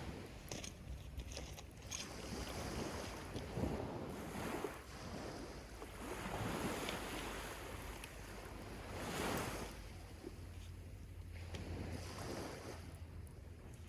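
Sea waves breaking and washing up a sandy beach, swelling and fading every few seconds, with a low rumble of wind on the microphone.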